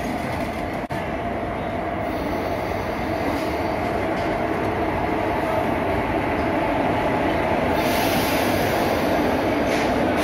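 Passenger train running on the rails with a steady rumble, dipping out for an instant about a second in. A brighter hiss rises near the end.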